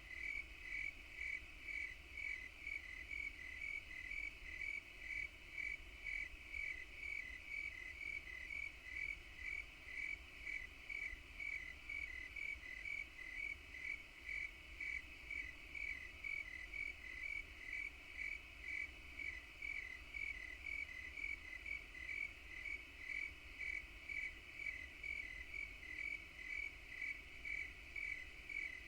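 An insect chirping: one high, even chirp repeated steadily at a little more than once a second, with a faint low rumble beneath.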